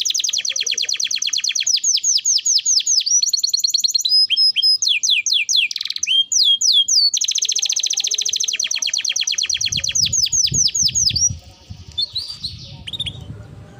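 Domestic canary singing long, fast trills (rolls) of rapidly repeated chirps, phrase after phrase, with a brief break about halfway through; the song turns to softer, scattered notes near the end.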